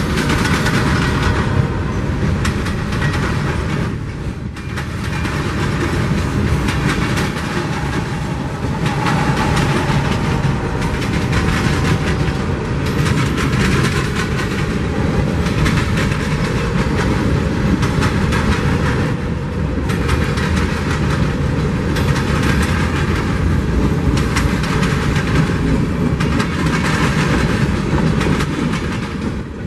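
Freight train rolling past, covered hoppers and then tank cars: a steady rumble of the cars with the rapid clicking and clatter of steel wheels over the rails.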